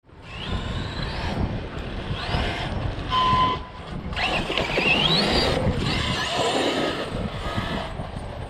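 Electric motor of a 1/8-scale RC car, an ARRMA Outcast, whining up and down in pitch several times as the car is throttled. The biggest rise comes a little after four seconds, over a rough rumble of tires and wind.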